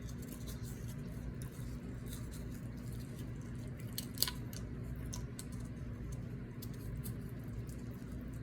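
Close-miked chewing of multigrain scoop chips with dip: small crunches and mouth clicks, with one sharper click about four seconds in, over a steady low hum.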